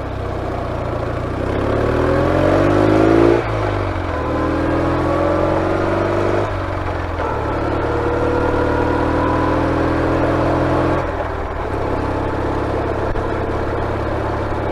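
BMW R69S's 594cc air-cooled flat-twin engine accelerating hard through the gears: the note rises, drops sharply at each of three gear changes (about 3.5, 6.5 and 11 seconds in), then settles to a steady drone.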